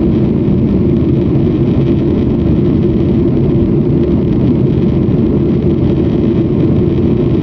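Steady, loud engine and air noise of an airliner heard from inside the passenger cabin, a low even drone that does not change.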